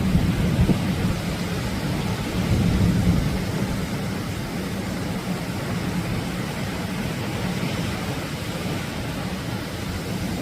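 Atlantic ocean waves breaking on a beach: a steady, low rumble of surf that swells a little about three seconds in.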